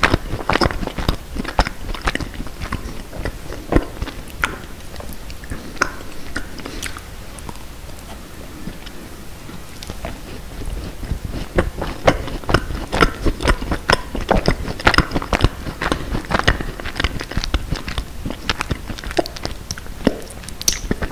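Close-miked chewing of a macaron: crisp clicks from the shell breaking up amid soft, wet mouth sounds. The chewing eases off for a few seconds in the middle, then picks up again.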